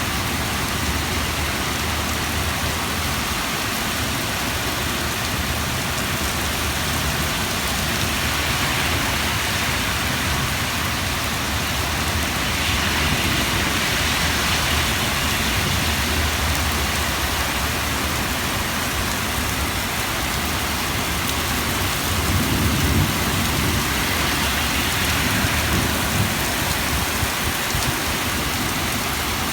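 Heavy rain falling steadily and hard, a dense even hiss of drops on surfaces. A low rumble swells and fades about three quarters of the way through.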